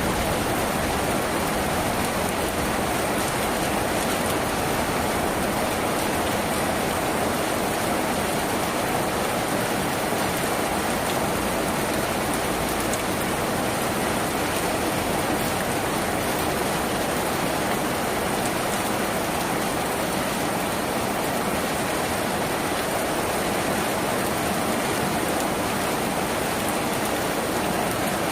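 Steady rain falling on a tin roof: a continuous, even hiss with no let-up.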